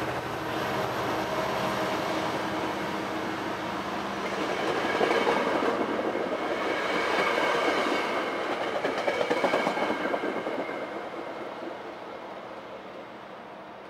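Metrolink commuter train's Rotem bi-level passenger coaches rolling past on departure, a steady rail rumble. It grows louder around the middle and fades as the train draws away near the end.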